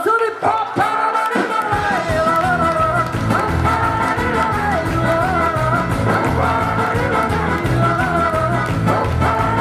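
Live rock band playing: after a few opening notes, bass and drums come in about two seconds in, under a wavering lead melody.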